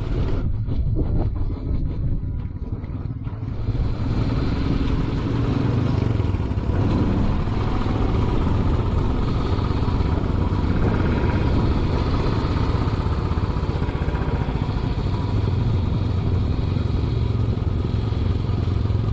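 Royal Enfield Classic 500's single-cylinder engine running steadily, with wind noise on the microphone.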